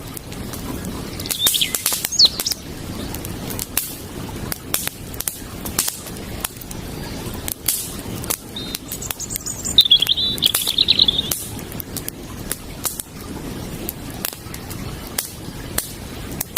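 Wood campfire crackling with frequent sharp pops and snaps over a steady low rush of flowing creek water. A small bird chirps briefly about a second and a half in and gives a longer chirping trill about ten seconds in.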